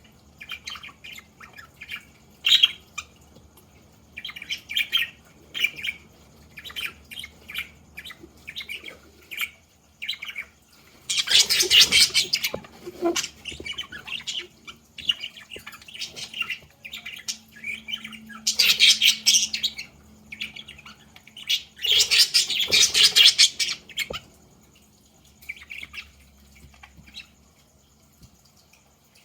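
Pet budgerigars chirping and chattering in short calls, broken by three louder, harsher spells lasting a second or two each.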